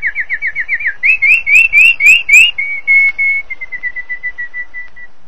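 Whistled bird song: a quick run of falling notes, then a few louder rising notes, then a string of short notes that speeds up and slowly drops in pitch before stopping near the end.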